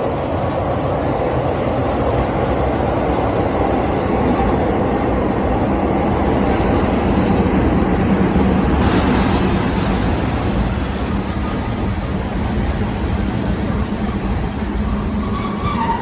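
Train pulling into the station: a loud, steady rumble of engine and wheels with no break.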